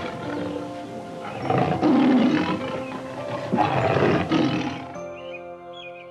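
An animal roaring three times, each call rough and about a second long, over background music with held notes.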